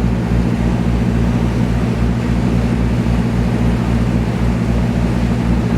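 A motor yacht's engine running steadily under way: a low, even drone with a steady hiss over it.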